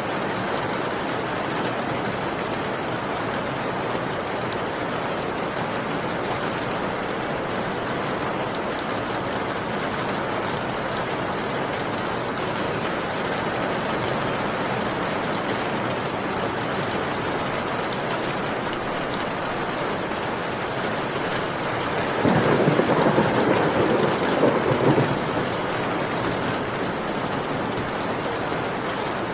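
Steady, even rainfall, with a roll of thunder near the end that swells up suddenly and lasts about three seconds.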